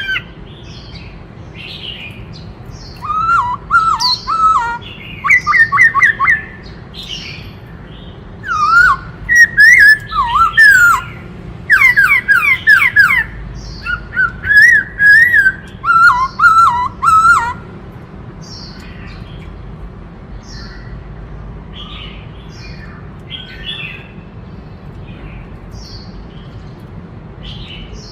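Black-throated laughingthrush singing loud, varied whistled phrases of quick up-and-down slurred notes, in a run of bursts from about three seconds in until about seventeen seconds. After that only soft, scattered chirps remain.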